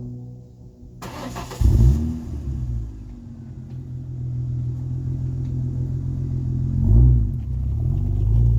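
2003 Ford Mustang's 3.8-litre V6 through a Magnaflow dual-muffler catback exhaust: it cranks and fires about a second and a half in, settles to a steady idle, then gets a quick rev blip near the end.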